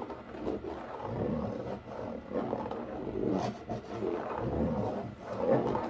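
A knife sawing through corrugated cardboard, giving a continuous, uneven rasp, presumably to cut a fan hole.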